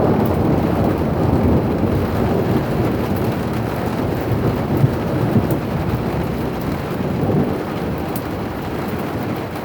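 Long rolling rumble of thunder over heavy rain, loudest at the start and fading slowly; the biggest one heard for a while.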